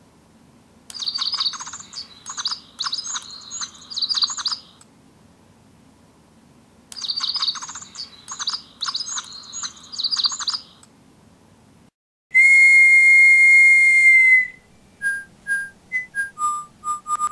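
Digi Birds electronic toy bird playing recorded chirping birdsong in two bursts of about four seconds each. About twelve seconds in comes a loud steady whistle blast, the signal that sets the toy singing, followed by a simple tune of short, pure whistle-like notes.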